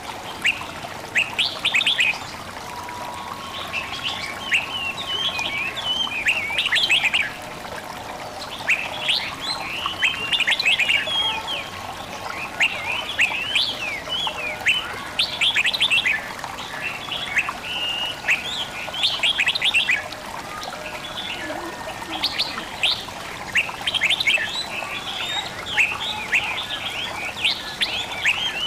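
Songbirds chirping and twittering in quick, dense runs, over a steady trickle of running water.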